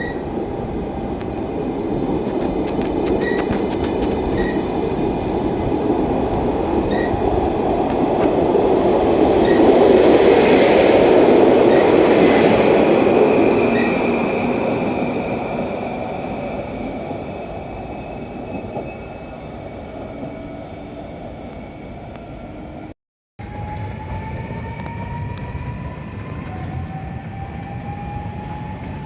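Electric passenger train passing on the track. The rumble swells to its loudest about a third of the way in and then fades, with thin high squealing tones from the wheels. After an abrupt cut near the end, an electric train's whine rises slowly in pitch as it gathers speed.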